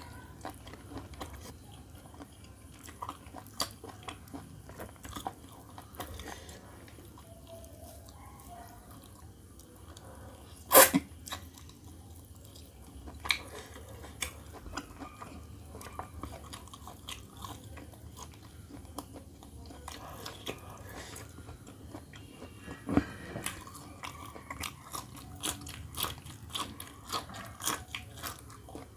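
Close-up eating sounds of roast chicken: chewing and biting with many short crunchy clicks. There is one much louder snap about a third of the way in and a quicker run of crunches near the end.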